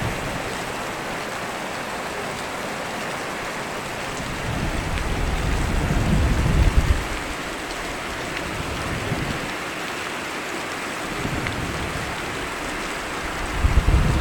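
Steady rain falling, with a low rumble of thunder that builds up twice, once in the middle and again near the end.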